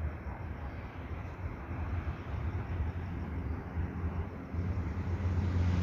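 Spirit box sweeping through radio stations, giving a steady rough static hiss over a low hum that grows louder near the end.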